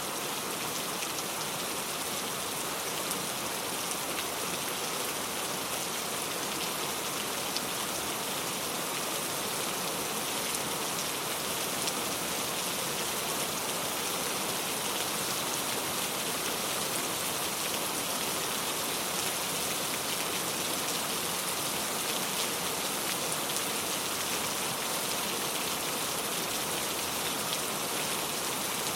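Steady rain falling, a constant hiss with fine patter of drops on a surface.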